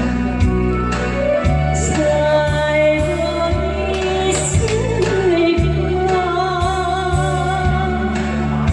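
A singer performing a Korean trot song over a backing track, holding long notes above a steady bass and beat.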